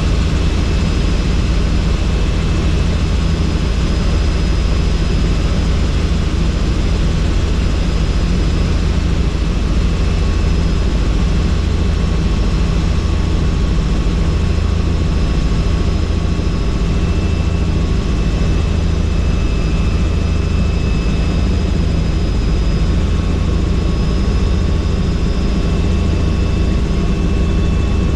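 Helicopter in flight: steady, loud rotor and engine noise with a thin high whine running through it, unchanging throughout.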